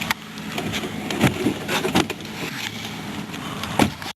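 A 2005 Toyota RAV4's engine idling on a cold start, with scattered clicks and knocks over it.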